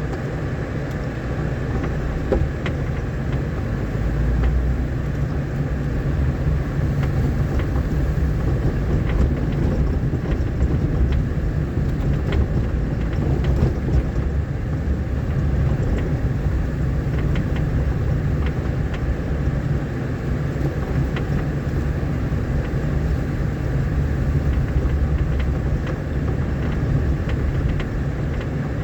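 Vehicle driving over a rough dirt road: a steady low rumble with scattered small knocks and rattles.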